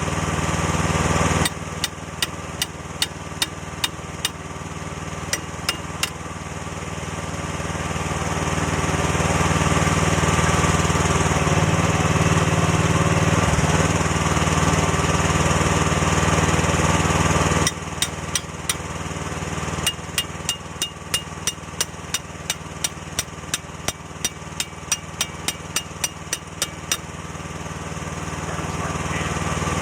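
Small diesel engine of a Chinese mini excavator running, revving up and working harder for several seconds mid-way before dropping back. Over the engine come repeated sharp knocks at about two a second, in two runs.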